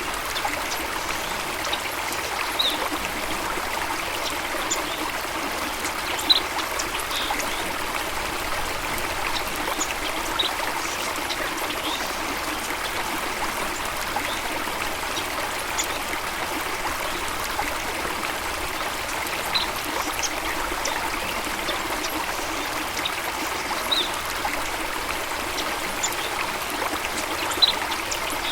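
Running water flowing steadily, with brief high ticks every few seconds.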